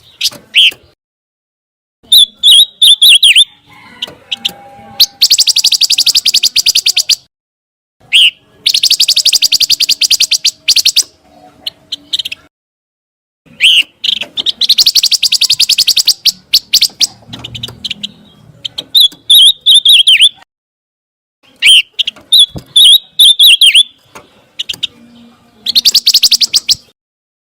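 Pancawarna bird singing loud, repeated song phrases: fast chattering trills alternating with shorter whistled notes, about seven phrases with brief pauses between them.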